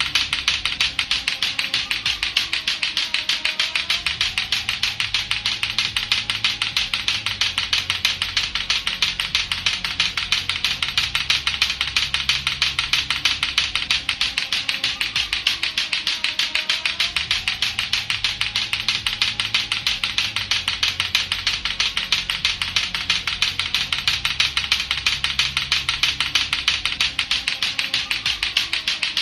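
Latto-latto clacker toy, its two hard plastic balls on a string knocking together in a rapid, even clacking that never lets up, over a looping music track with a low repeating bass line.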